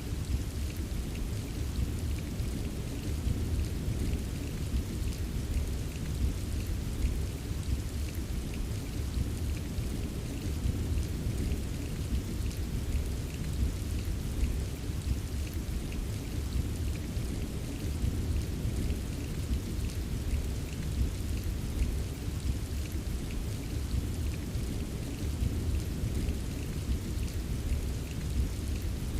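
Steady rain with a continuous low rumble of distant thunder underneath, and light drops tapping throughout.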